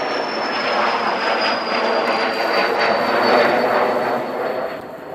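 Learjet 45 jet departing, its twin turbofan engines giving a loud roar with a high whine that slowly falls in pitch as it passes, the roar easing near the end.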